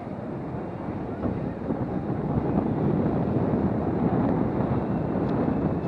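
Steady rushing wind noise on the microphone, growing louder over the first few seconds and then holding.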